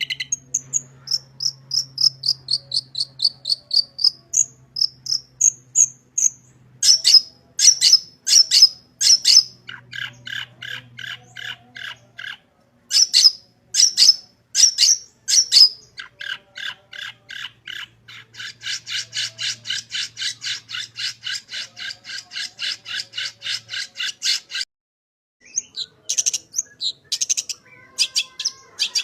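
Long-tailed shrike (cendet) singing a varied song full of mimicked calls: whistled notes sliding down and up, quick runs of loud sharp chips, and a long rapid buzzing trill, with a brief pause near the end.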